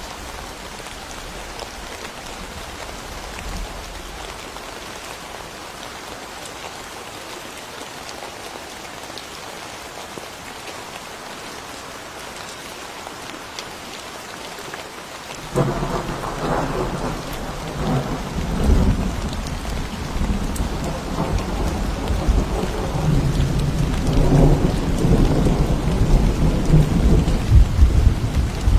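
Steady rain falling. About halfway through, a roll of thunder breaks in suddenly and keeps rumbling, growing louder toward the end.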